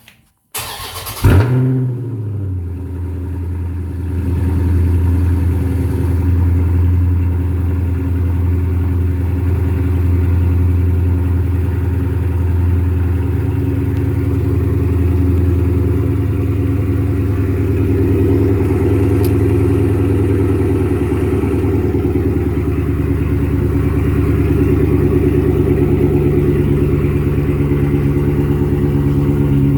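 Dodge Challenger 392 Scat Pack's 6.4-litre HEMI V8 cold start: a brief crank, then it catches with a loud flare a little over a second in and settles into a steady idle. The exhaust has the mid-mufflers replaced by Dynomax mini race bullets and the resonators deleted.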